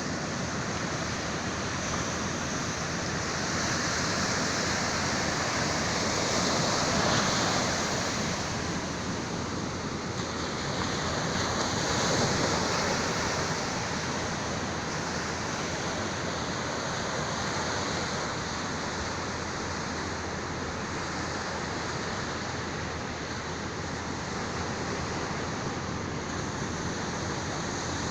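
Sea waves washing onto the shore in a steady rush, swelling louder about seven and twelve seconds in.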